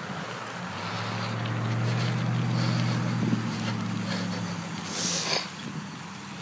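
An engine running with a steady low hum that swells and then fades, with a brief rush of noise about five seconds in.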